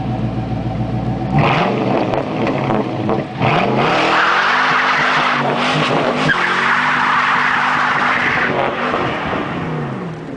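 2004 Pontiac GTO's LS1 V8 running steadily through its loud exhaust, then revved up and down several times from about a second in. A strong rushing hiss builds under the revs through the middle and fades near the end.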